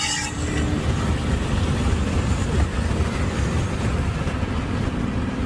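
Car engine running with a steady low rumble, together with road noise from a moving car.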